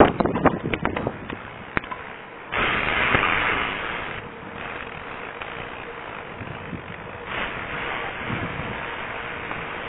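Wind rushing over the microphone of a small head-mounted camera while riding a bike, with a few sharp clicks in the first two seconds and a louder gust about two and a half seconds in.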